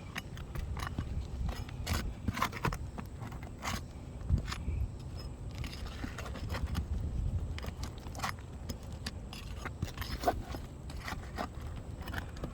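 Irregular metal clinks and short scrapes of a tool working under roof shingles to pull out their long nails.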